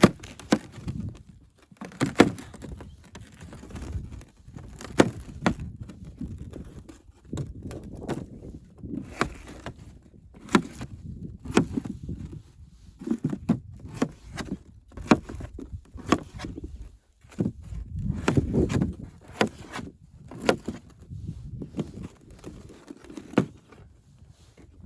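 An irregular series of sharp knocks and dull thuds, about one every second, with shuffling and rustling between them, as from hard objects being handled or set down.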